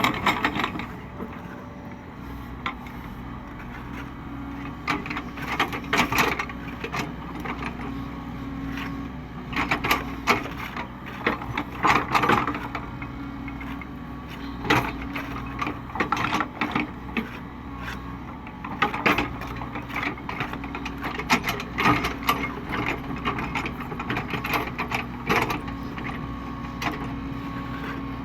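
Caterpillar 307E2 mini excavator working: its diesel engine runs at a steady pitch under repeated irregular knocks and clattering clusters.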